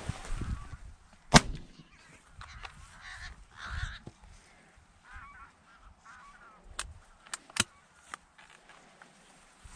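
A shotgun shot about a second and a half in, with harsh cawing calls around it and a few sharper cracks about seven to eight seconds in.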